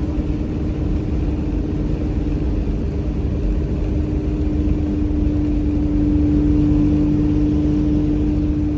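Motor vehicle engine running steadily, with a steady droning tone that grows stronger from about halfway through.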